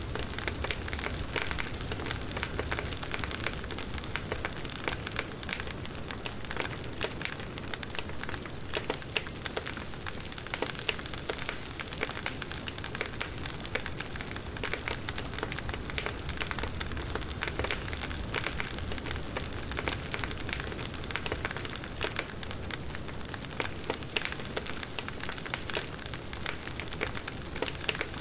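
Wood fire burning with a steady, dense crackling of small pops and snaps.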